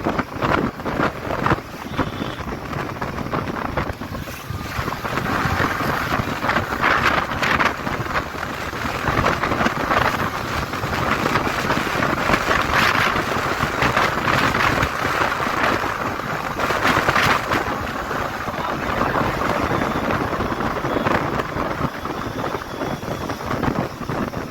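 Wind buffeting the microphone on a moving motorcycle, with engine and road noise underneath; the loudness rises and falls in gusts.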